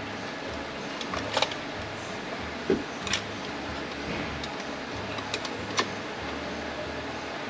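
A few scattered light clicks and ticks of metal hand tools (scribes) working against transmission parts, five or six in all, over a steady low hum.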